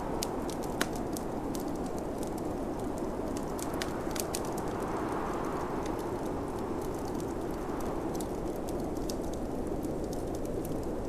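Wood fire crackling and popping with scattered sharp snaps, over the steady rush of snowstorm wind that swells and eases about halfway through.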